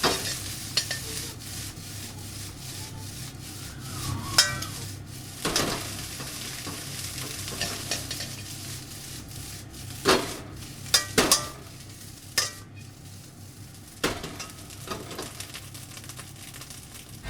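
Salmon fried rice sizzling as it is stir-fried in a pan, with a cooking utensil knocking and scraping against the pan at uneven intervals, several knocks close together about two thirds of the way through.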